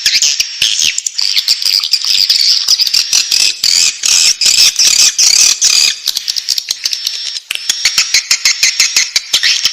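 Swiftlet chicks calling in the nest: a dense, continuous high-pitched chittering of many overlapping chirps and clicks, briefly dipping about seven and a half seconds in.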